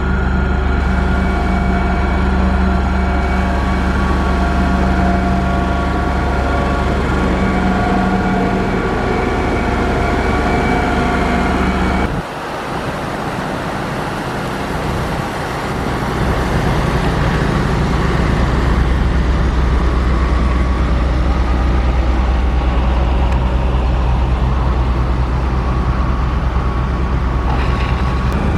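Heavy diesel engine of a construction machine running steadily under load. About twelve seconds in, the sound cuts abruptly to a quieter engine note that builds back up over the next few seconds.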